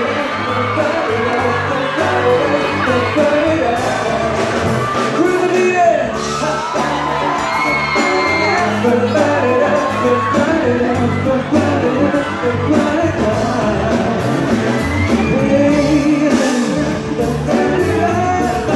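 Live pop music: a male lead singer with a full band through a loud PA, a steady bass pulse under the sung melody, with the crowd whooping and shouting.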